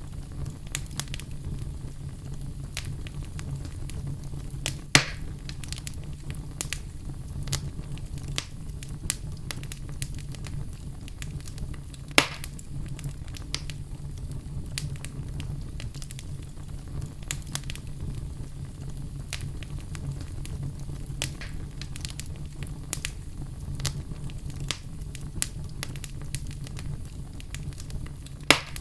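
Fire burning in a fireplace: a steady low rumble with constant small crackles and three sharper pops, about five seconds in, about twelve seconds in and near the end.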